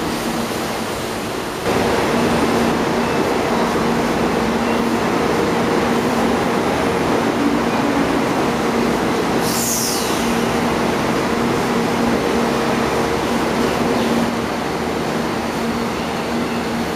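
Electric urban passenger train running, a steady rumble with a steady low hum. The level steps up suddenly about two seconds in, and a brief high falling squeal comes about halfway through.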